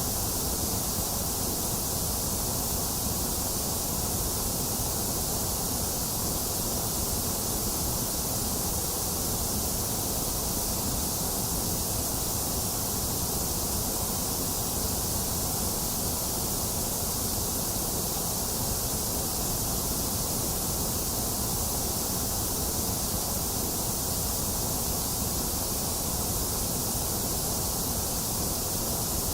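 Box fan running steadily, blended with steady rain as one even, unchanging hiss and rush with no separate events.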